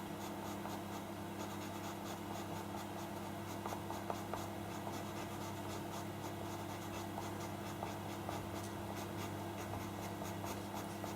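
Pastel pencil scratching across drawing paper in many short, quick strokes, over a steady low hum.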